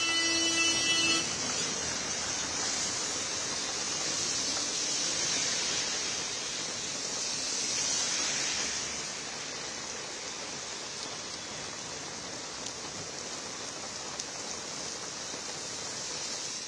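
Heavy monsoon rain pouring down in a steady hiss, with a brief pitched tone in the first second or so.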